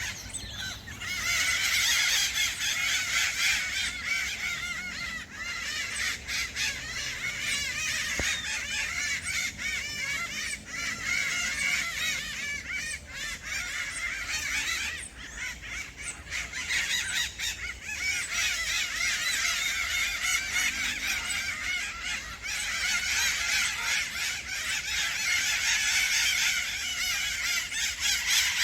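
A large flock of parrots squawking and chattering in a dense, continuous chorus of overlapping harsh calls, thinning briefly twice before building again.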